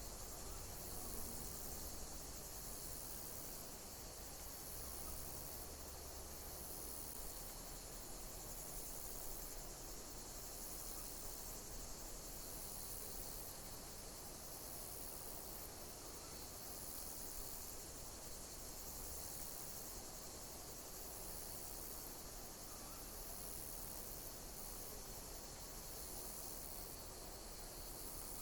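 Insects chirping: a very high, steady chorus with a chirp pulse repeating about once a second, over a constant hiss.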